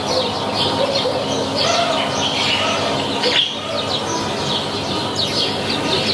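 A chorus of small birds chirping and singing, many short high chirps overlapping without pause.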